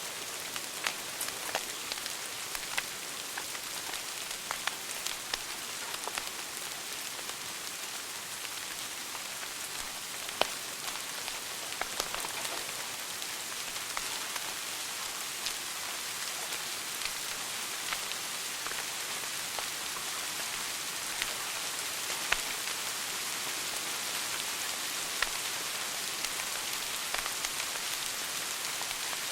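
Wood fire burning in a fireplace: a steady hiss with frequent small crackles and a few louder pops.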